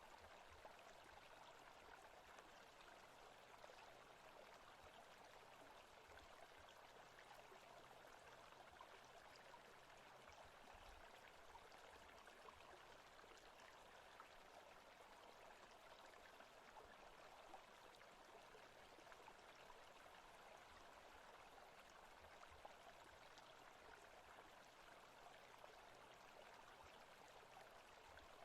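Faint forest ambience of steadily running water, like a stream, with an even hiss that does not change.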